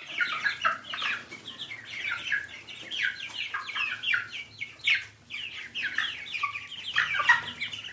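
Ducklings peeping: a rapid, continuous run of short, high peeps that slide downward in pitch, several birds overlapping.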